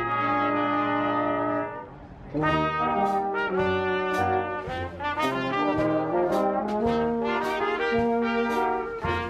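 Brass band music: trombones and trumpets hold a chord, break off briefly about two seconds in, then launch into a lively tune over a bass line, with drum or cymbal strokes.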